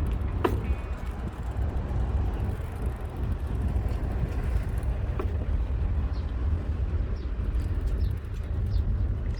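Mountain bike being ridden: a steady low rumble of wind on the microphone and tyres on the ground, with a sharp click about half a second in and another about five seconds in.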